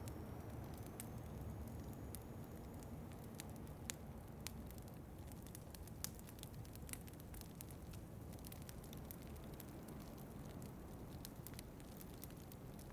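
Wood fire crackling in a fireplace, with scattered sharp pops and snaps over a low, steady rumble of wind.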